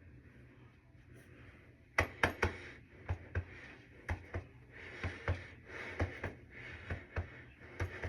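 Sharp clicks or knocks, mostly in pairs about once a second, starting about two seconds in, with heavy breathing between them: the rhythm of someone working through repetitions of a leg exercise.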